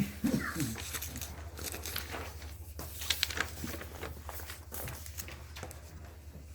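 Papers rustling and being handled, with scattered light clicks and knocks over a steady low electrical hum. A brief low pitched sound is heard right at the start.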